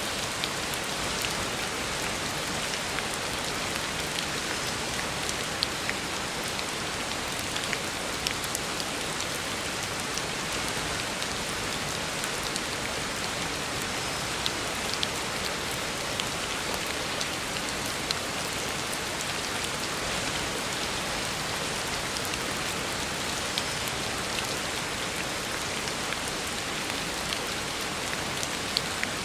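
Heavy rain falling steadily on a road surface, a dense even hiss with scattered sharper drop ticks.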